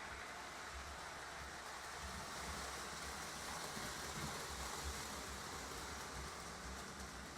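Lionel model trains running on the layout: a steady whir and rumble of motors and wheels on the metal track, getting a little louder in the middle.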